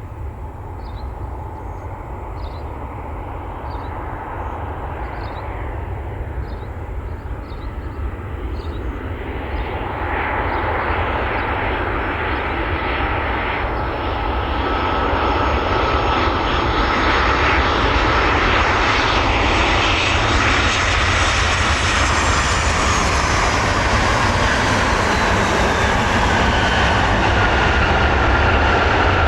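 Jet airliner engines growing steadily louder as the aircraft draws near and passes, a rushing roar with a high whine that slides down in pitch about two-thirds of the way through.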